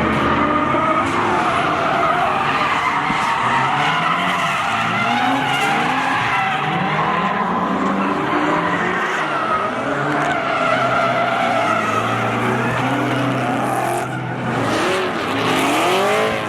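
Drift cars sliding with tyre squeal, their engines revving up and down throughout.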